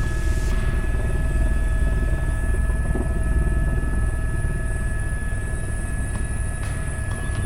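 Helicopter running steadily in flight: a deep, even rumble from the rotor with a few thin, steady whines on top.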